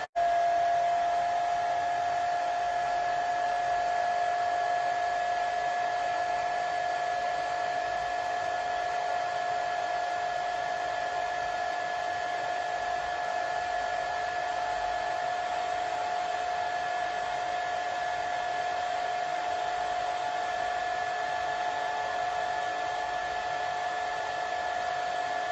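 Hair dryer running steadily: an even rush of blown air with a steady whine on top. It cuts out for a split second right at the start, then comes straight back.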